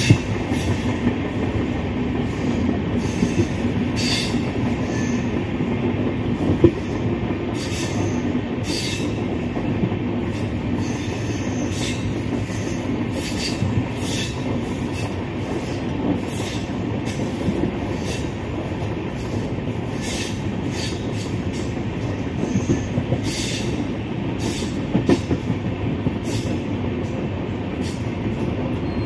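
Moving Indian express train heard from inside its passenger coach: a steady rumble of the wheels on the rails, with irregular sharp clicks and knocks as the wheels pass over rail joints.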